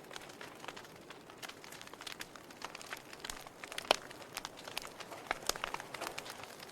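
Wood fire crackling in a fireplace: irregular sharp pops and snaps over a soft hiss, with one louder pop about four seconds in.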